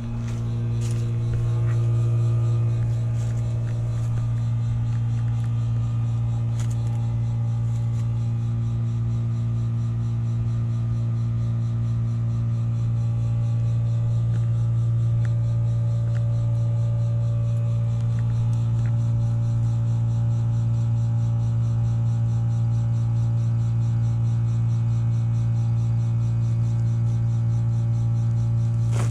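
Outdoor unit of a 1981 3-ton BDP heat pump running with a loud, steady hum, during its defrost cycle.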